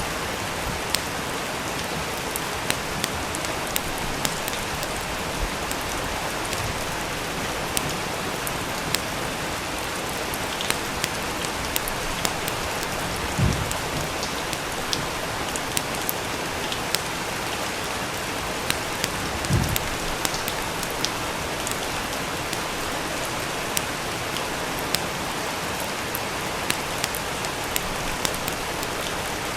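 Steady rain with a wood fire crackling, scattered sharp pops throughout. Two soft low thumps come a little before halfway and again about six seconds later.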